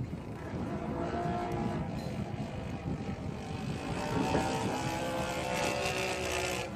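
Engine of a Seagull Edge 540 radio-controlled aerobatic model plane running, its pitch rising and falling.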